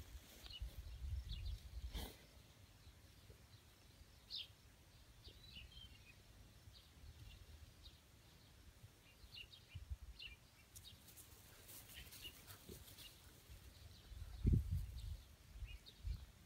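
Faint outdoor ambience with scattered short bird chirps, and a few low thuds and rumbles, the loudest about 14 seconds in.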